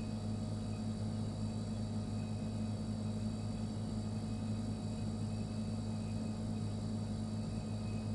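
Refrigerator running: a steady low hum from the compressor, unchanging throughout, with faint steady higher tones above it.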